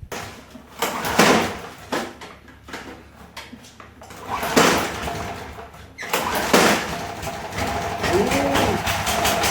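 Recoil starter cord of a Briggs & Stratton 5 HP lawn mower engine pulled hard three times, each pull a loud rasping surge; over the last few seconds the engine runs steadily.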